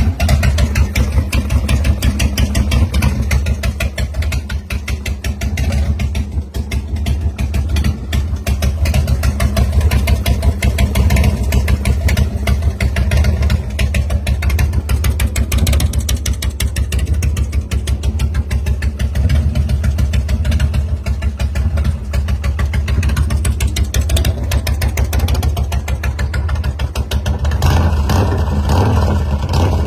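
A 2005 American IronHorse LSC chopper's V-twin engine running at a steady idle, with a rapid, even pulsing throb. It swells briefly near the end.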